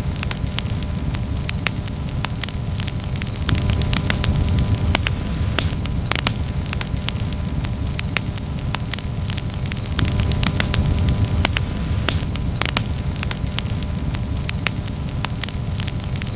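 Wood campfire crackling, with frequent sharp, irregular pops and snaps over a steady low rush of burning.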